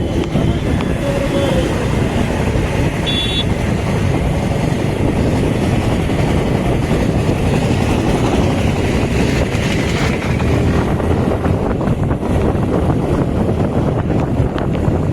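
Motorcycle on the move: steady wind rush over the microphone with engine and road noise underneath. A brief high beep comes about three seconds in.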